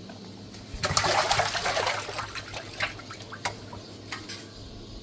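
Water pouring and splashing for about a second, followed by a few separate splashes or drips.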